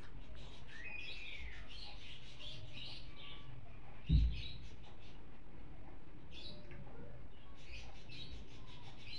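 Small birds chirping repeatedly over a steady low hiss, with one low thump about four seconds in.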